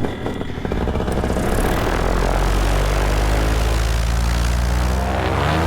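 Paramotor engine and propeller running close by, the throttle coming up in the first second or two to a steady drone, then rising in pitch again near the end.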